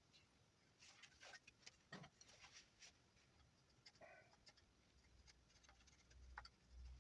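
Faint knife whittling in juniper wood: scattered short scraping cuts and small clicks, with a low rumble near the end.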